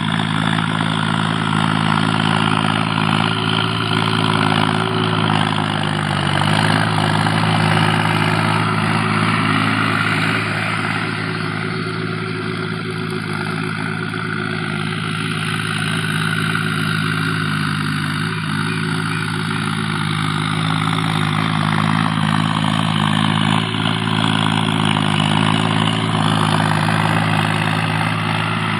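Tractor diesel engine running steadily at low revs, its note shifting briefly about six seconds in.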